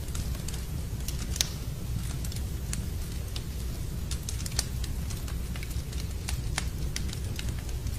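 Wood fire crackling in a fireplace: irregular sharp pops and snaps, the loudest about a second and a half in, over a steady low rumble.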